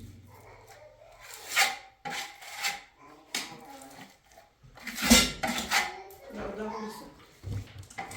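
Several sharp knocks and clinks, with low voices in between.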